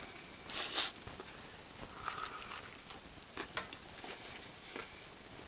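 Faint chewing with a few light, scattered clicks of a utensil, as someone eats fried Spam.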